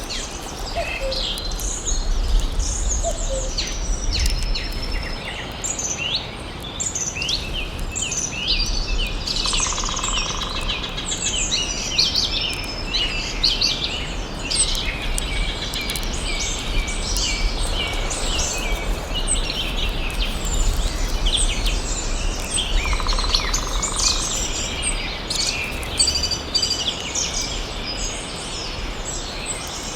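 Several birds chirping and singing at once in a forest, dense overlapping calls throughout, over a low steady rumble.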